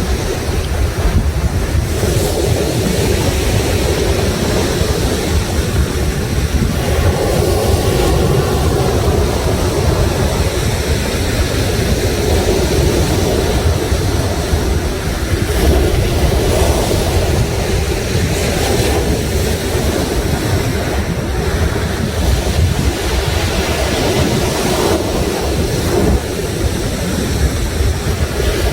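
Sea waves surging and breaking on the shore in a continuous wash, with wind buffeting the microphone as a steady low rumble.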